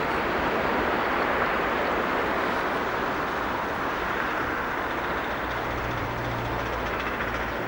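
Diesel train running, a steady rushing noise, with a low engine hum coming in about five and a half seconds in.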